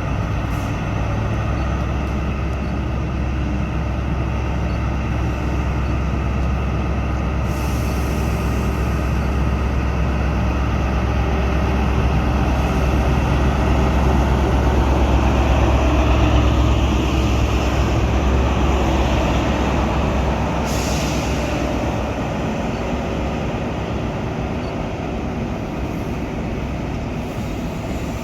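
A train running, with a steady low drone that swells toward the middle and then eases. There is a short burst of hiss about a quarter of the way in and another about three quarters in.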